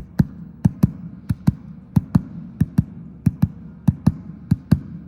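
An empty tub thumped by hand in a double-beat rhythm, a pair of low thumps about every two-thirds of a second, imitating a beating heart.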